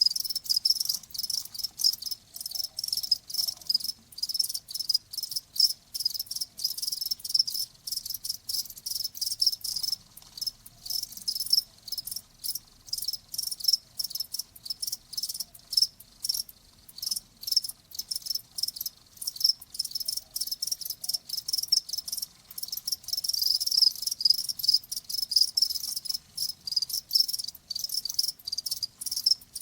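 Crickets chirping: a high-pitched, unbroken run of rapid chirps, several a second.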